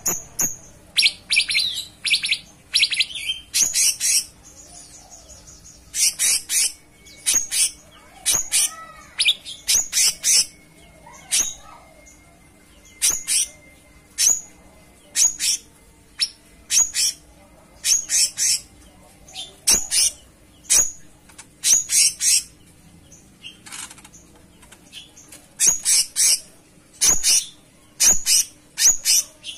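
Cucak cungkok singing: a string of short, high, sharp chirping phrases repeated at uneven intervals, with a brief lull a few seconds in. A faint steady hum lies underneath.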